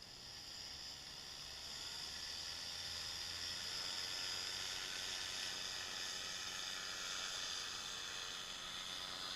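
Paramotor engine and propeller running steadily: a dense set of steady tones over a hiss. It comes in abruptly and grows louder over the first two seconds.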